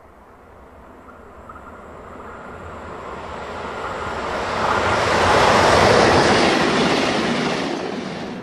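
Trenitalia E 464 electric locomotive hauling MDVE passenger coaches running through a station: the sound of the train grows steadily, is loudest about six seconds in as the locomotive passes, then eases off as the coaches go by.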